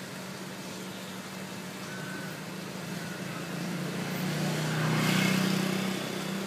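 A motor vehicle passing, swelling to its loudest about five seconds in and then fading, over a steady low engine hum.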